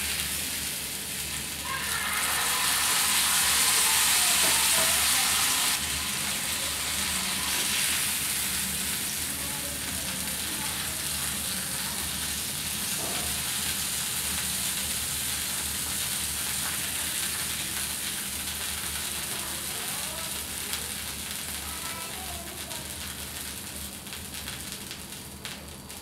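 Pork steak frying in oil in a shallow metal pan: a steady, hissing sizzle, loudest for a few seconds near the start, then settling and fading a little toward the end.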